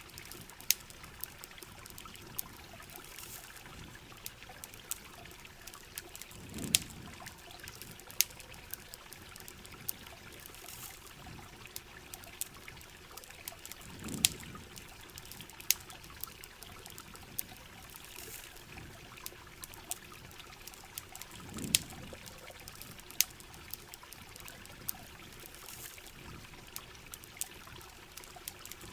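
Steady rain and trickling water with sharp pops and crackles from a campfire scattered throughout. A low, soft swell recurs about every seven and a half seconds.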